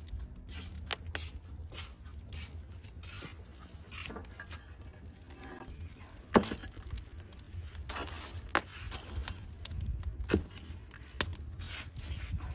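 Scattered clinks, knocks and scrapes of cooking utensils being handled, with the loudest knock about six seconds in, over a steady low rumble.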